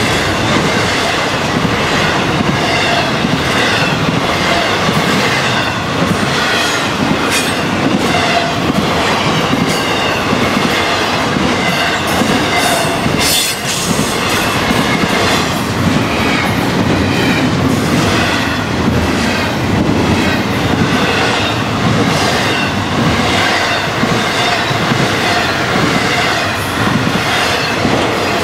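Florida East Coast Railway intermodal freight train's trailer-loaded cars rolling past, a steady loud rumble with repeated clacking of wheels over rail joints. A single sharp clank stands out about halfway through.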